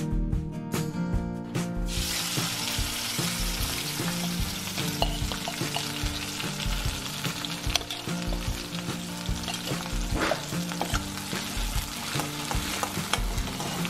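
Chopped onion and a green paste dropped into hot oil in a steel wok, sizzling hard from about two seconds in. A steel ladle stirs and clinks against the wok.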